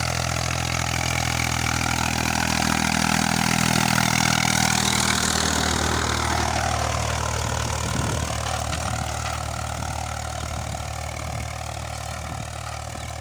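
Eicher 485 tractor's diesel engine running steadily, growing louder over the first few seconds and then fading gradually.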